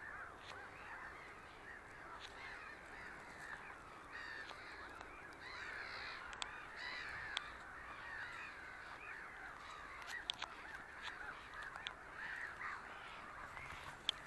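A dense chorus of many overlapping animal calls, with occasional sharp ticks.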